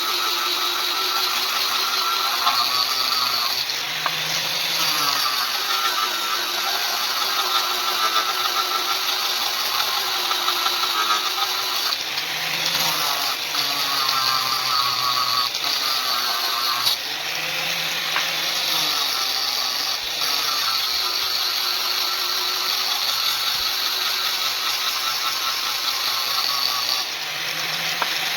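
Electric power tool motor running without a break, its pitch dipping and recovering every few seconds, as when the tool is shaping steel for a knife blade.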